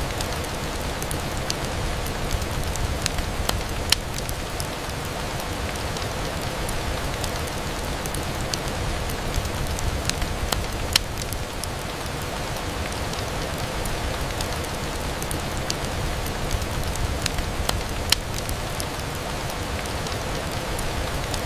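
Steady rain falling against a window, an even hiss with many scattered sharp ticks. Three louder clicks stand out, about four, eleven and eighteen seconds in.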